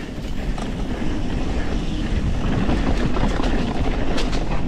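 Mountain bike riding down a muddy trail: wind rushing over the action-camera microphone and tyres rolling through mud and dirt, growing louder about a second in as speed picks up. Scattered clicks and knocks from the bike rattling over rough ground come near the end.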